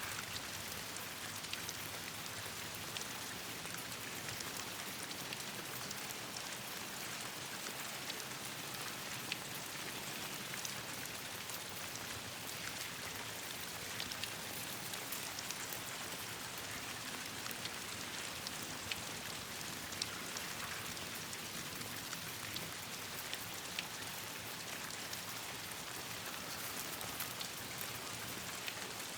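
Steady rain falling on leaves, with frequent sharp little ticks scattered through it.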